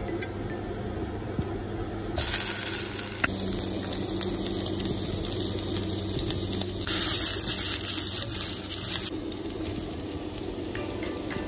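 Food frying and sizzling in a pan, with two louder surges of hissing, one about two seconds in and a longer one around seven seconds in.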